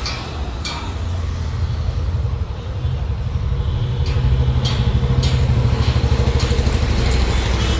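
A motor vehicle's engine running with a steady low rumble that grows louder a little after a second in, with a few sharp clicks around the middle.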